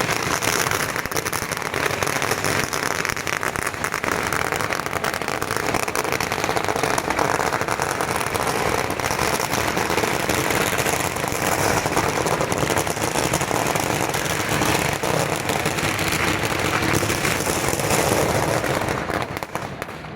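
Fireworks or firecrackers crackling and hissing densely and without a break, with no single loud bang standing out. The sound eases off just before the end.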